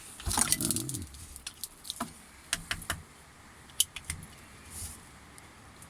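Scattered sharp clicks and light metallic clinks from small parts and tools being handled during the fitting of a shearing-machine motor, with a muffled knock in the first second.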